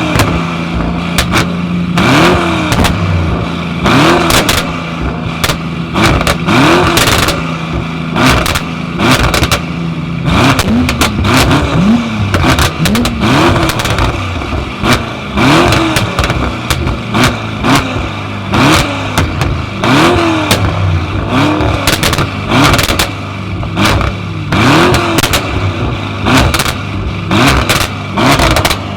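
Tuned car engines blipped again and again in quick, short revs, with loud exhaust pops and crackles between them, over the steady sound of engines idling.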